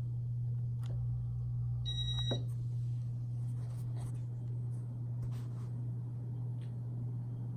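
Casablanca Victorian II ceiling fan running with a steady low motor hum. A short, high electronic beep sounds about two seconds in, alongside a few faint clicks.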